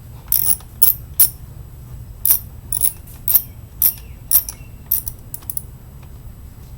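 Socket ratchet clicking in short strokes, about two a second, as a 10 mm bolt is backed out of a dirt bike's side panel. The clicks thin out after about five and a half seconds.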